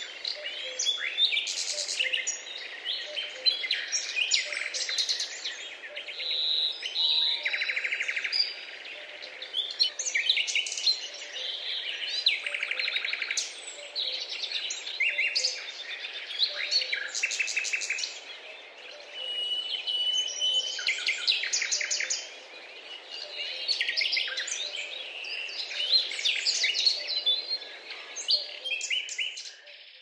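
Many songbirds chirping and trilling together in a dense morning chorus, the calls overlapping with hardly a gap, over a faint steady hiss.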